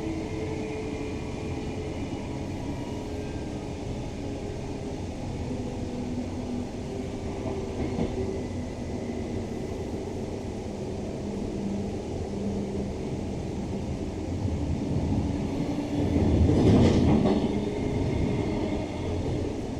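Queensland Rail NGR electric multiple unit heard from inside a carriage while running between stations: a steady rumble of the car on the track, with faint electric whine tones that step down in pitch. About three-quarters of the way through, a louder rushing surge swells briefly and then fades.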